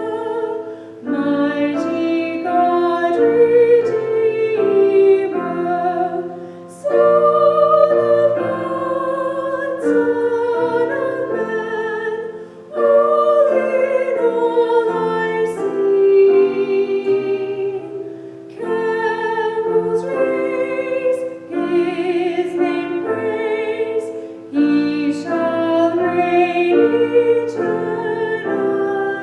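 A female soloist singing a hymn with vibrato to piano accompaniment, in phrases of about six seconds with short breaths between them.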